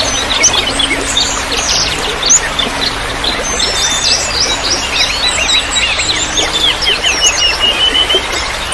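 Many songbirds chirping and twittering in quick, overlapping calls over a steady trickle of running water.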